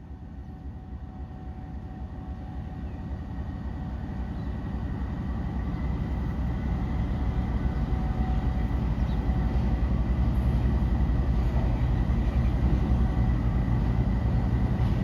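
Train hauled by a ZCUP-30 diesel locomotive approaching: a low rumble that grows steadily louder over the first several seconds and then holds, with a faint steady high tone running through it.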